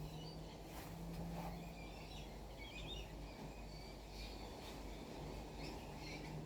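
Wild birds calling faintly with scattered short, high chirps over steady background noise and a low hum.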